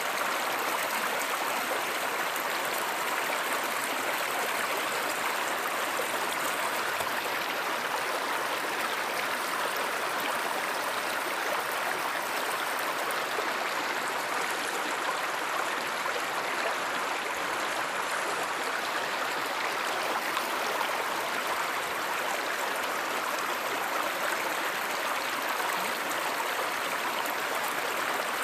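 Stream water running steadily, an even rush of flowing water with no change in level.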